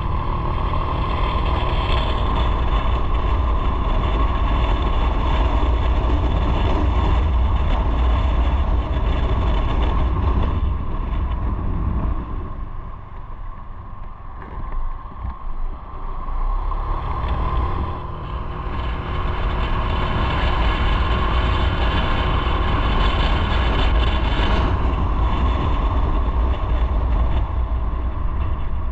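Motorcycle engine running while riding, with wind on the microphone; the sound eases off about halfway through for a few seconds, then picks back up.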